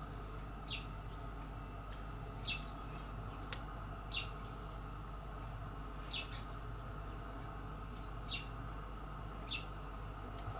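A small bird outside chirping: six short, high single chirps, about one every one and a half to two seconds, over a steady low hum.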